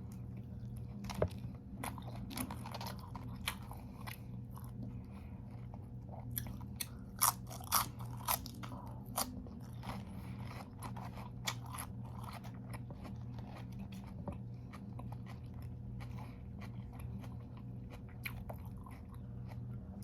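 A person chewing and biting crunchy food close to the microphone: irregular crunches, loudest and densest about seven to eight seconds in, over a steady low hum.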